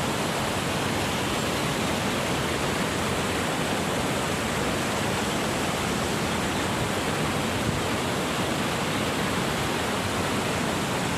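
Steady, even rushing of falling water, as from a waterfall or cascade.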